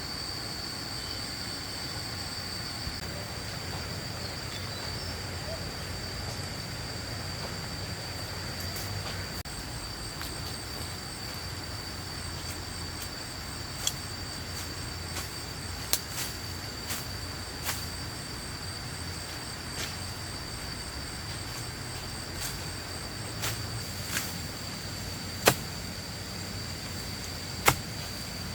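Steady high-pitched insect chirr, typical of crickets or cicadas, with sharp snaps that come at irregular intervals from about halfway and grow more frequent and louder near the end.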